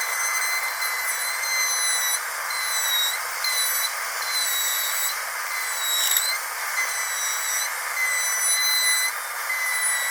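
Dental drill running with a steady high-pitched whine over a hiss of air. Its pitch dips briefly a few times.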